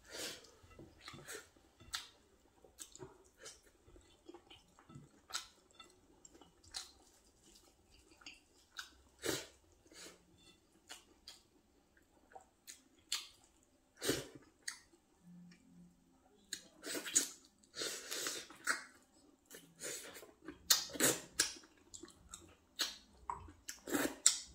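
A man chewing and smacking his lips while eating rice and pork curry by hand. The irregular short clicks and smacks grow busier and louder in the second half.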